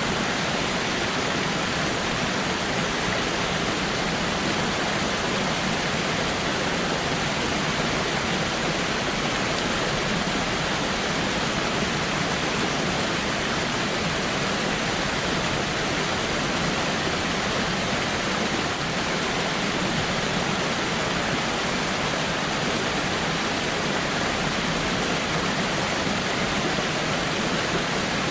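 Steady, unbroken rush of a waterfall, an even spread of falling-water noise with no separate splashes or other events.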